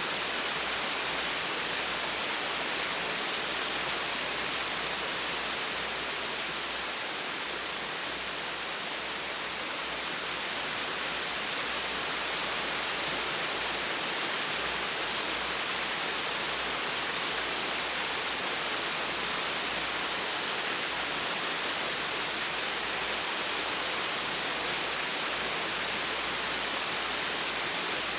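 Small waterfall splashing in a steady, even rush of falling water, with a slight softening for a few seconds partway through.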